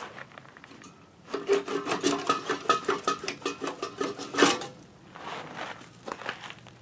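Quick rasping strokes on wood, about three seconds of rapid back-and-forth rubbing that starts just over a second in, with a few scattered knocks before and after.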